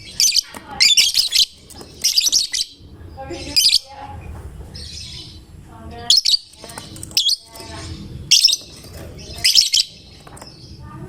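Lovebird chirping in a string of short, shrill bursts, roughly one a second.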